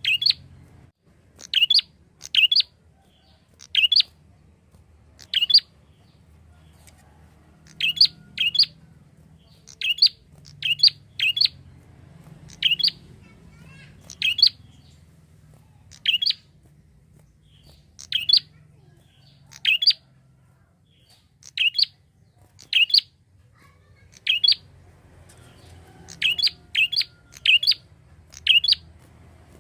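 A prinia (prenjak) calling: short, sharp chirps repeated every second or two, sometimes in quick pairs and, near the end, a faster run of four or five. A faint low hum lies underneath.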